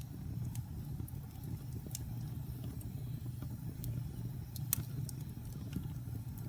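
Wood fire in a fireplace crackling: scattered sharp pops and snaps over a steady low rumble of the flames, with one louder pop about three-quarters of the way through.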